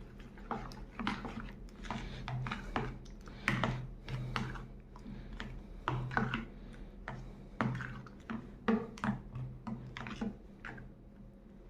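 Spoon stirring raita (yogurt with chopped vegetables) in a bowl: irregular clicks and taps of the spoon against the bowl, over a low steady hum.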